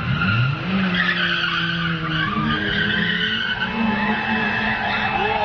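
A car drifting: the tyres squeal continuously while the engine revs up in the first second and then holds at high revs.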